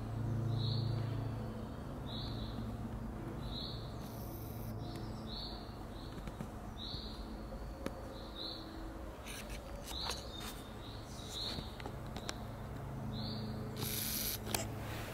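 A small bird repeating one short, high call over and over at an even pace, a little more than once a second, over a low background hum that swells at the start and again near the end.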